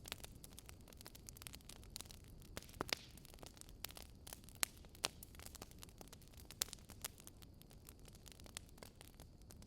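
Wood fire crackling in a fireplace: irregular sharp pops and snaps, a few louder ones around three and five seconds in, over a faint steady low rumble.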